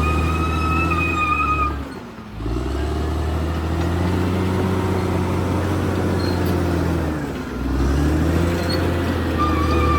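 Caterpillar D6R XL bulldozer's diesel engine running hard. Its note sags and picks back up twice, about two seconds in and again past seven seconds, as the load on it changes.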